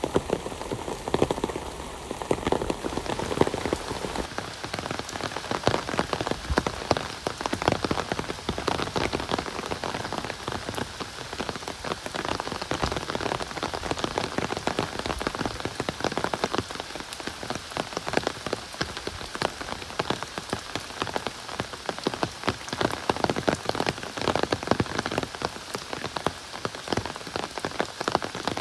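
Heavy rain falling steadily, a dense patter of individual drops striking.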